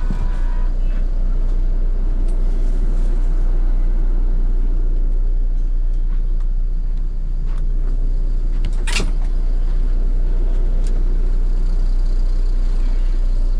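Steady low rumble of a moving vehicle, heard from inside, with a single sharp knock about nine seconds in.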